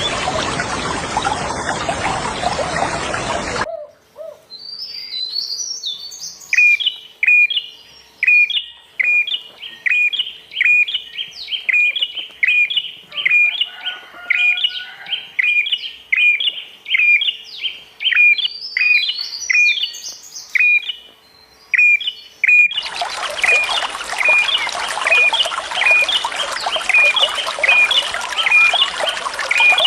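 Running water with a songbird calling over it; the water sound cuts off abruptly about four seconds in, leaving the bird repeating a short, sharp call about one and a half times a second, and the water cuts back in near the end while the calls go on.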